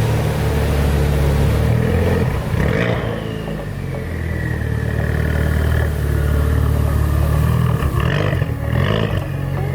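Ford Focus RS's turbocharged 2.3-litre four-cylinder running loud through a muffler-deleted exhaust, with blips of the throttle around 3 s and again about 8–9 s in.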